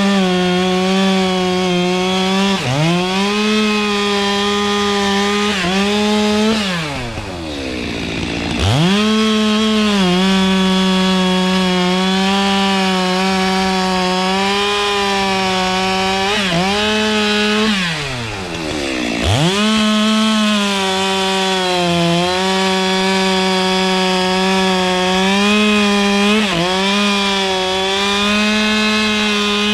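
Two-stroke chainsaw running at high revs through a cut in wood, its pitch holding steady with brief dips. Twice, about a quarter of the way in and again past the middle, the throttle is let off so the engine drops toward idle for a second or two, then it revs straight back up.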